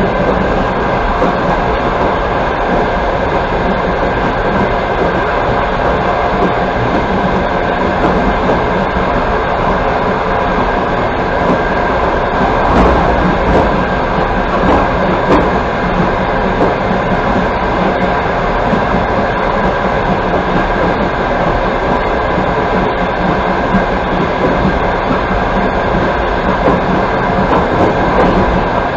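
Express passenger train running at speed, heard from inside the carriage: a steady rumble of wheels on rails with no break or change.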